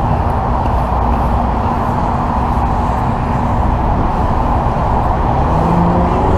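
Steady freeway traffic roar, with a vehicle engine hum that rises in pitch near the end.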